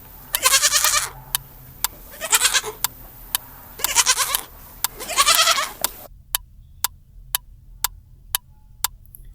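Goat bleating: about five wavering calls over the first six seconds, over a steady tick about twice a second that carries on alone near the end.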